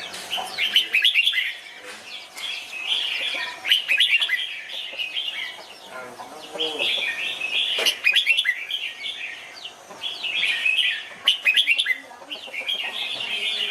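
Red-whiskered bulbuls singing: quick, chirpy bubbling phrases in bursts every two to three seconds.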